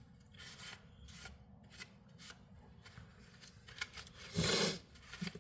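Faint handling noises from working on a small tool by hand: scattered light clicks and rubbing, with one louder rustle about four and a half seconds in.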